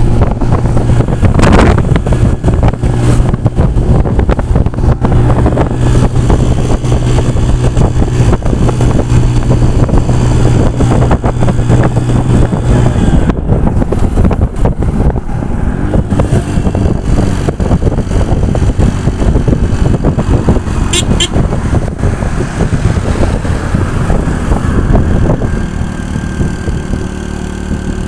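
Motorcycle engine running as it is ridden along, a steady low hum that shifts to a different note about halfway through, under loud rumbling road and wind noise.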